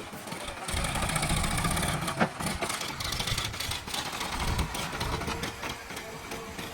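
JCB backhoe loader's diesel engine running under work, getting louder about a second in, with a sharp knock about two seconds in.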